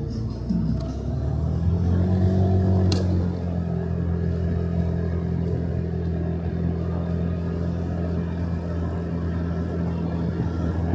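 Motorcycle engine rising in pitch as it accelerates about a second in, then running steadily at cruising speed, with one sharp click about three seconds in.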